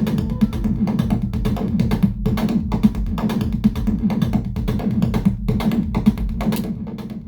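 Eurorack modular synthesizer music: a fast sequenced rhythm of sharp percussive hits from a Noise Engineering Basimilus Iteritas Alter drum voice over a sustained low synth line from a Manis Iteritas, washed in reverb. The level dips briefly near the end.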